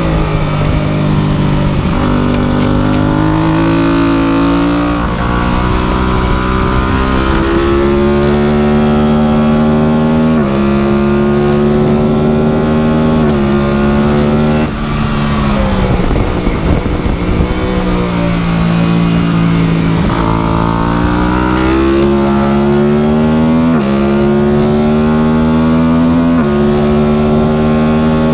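Motorcycle engine accelerating hard through the gears: the engine note climbs, then drops sharply at each upshift, about every two to three seconds. About halfway through it falls away as the rider rolls off, then builds again through more upshifts, with wind noise throughout.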